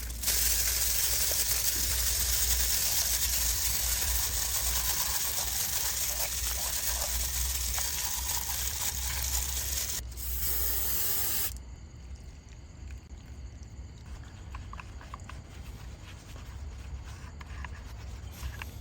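A steady spray hissing for about ten seconds, a brief break, then another second and a half before it cuts off; quieter small clicks and handling sounds follow.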